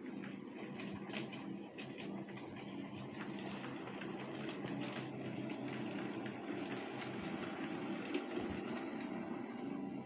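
00 gauge model locomotive running along the track while shunting wagons: a steady electric-motor whir with scattered clicks from the wheels and track.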